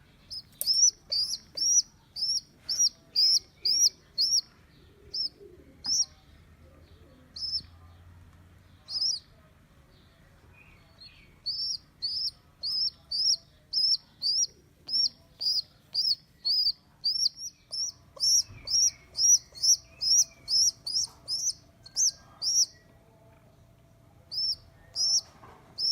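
A bird chirping in quick runs of short, high chirps, about two to three a second, broken by a couple of pauses of a second or two.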